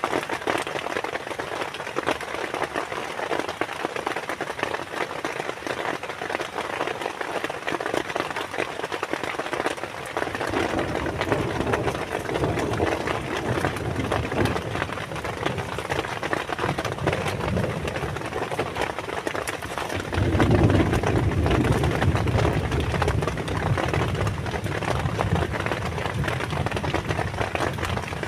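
Heavy rain pattering steadily in dense fine drops. About ten seconds in, a deeper low rumble builds under it, and it grows louder again at about twenty seconds.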